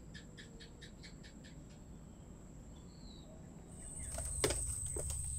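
Birds calling over a steady high-pitched hum: a rapid run of about ten sharp chirps at the start and a short whistle around three seconds in. Near the end the background gets louder, with a couple of sharp knocks.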